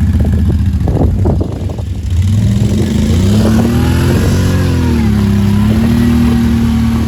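ATV engine running under load in deep mud, revving up and down as the stuck quad is worked out of the ruts. A few short knocks about a second in; the revs climb from about two and a half seconds in and then rise and fall.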